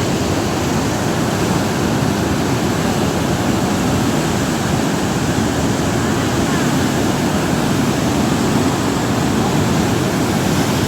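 A powerful waterfall crashing: a loud, steady rush of falling water.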